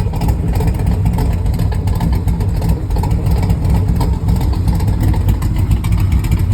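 1981 Corvette's 350 V8 running steadily, mostly idling, through side pipes fitted with slip-in mufflers. The camshaft can be heard in the exhaust note.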